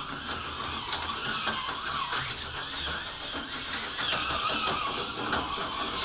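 HO-scale slot car's small electric motor whining as the car laps the track, its pitch rising and falling with the throttle, with light clicks from the car running over the track.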